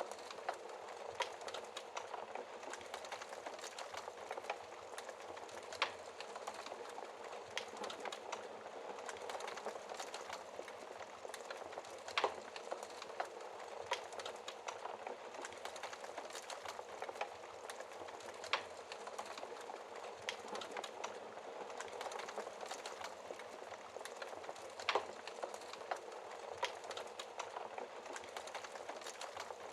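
Wood fire burning in a fireplace: a steady hiss and soft crackle with scattered sharp pops from the burning logs, the loudest pops about 12 and 25 seconds in.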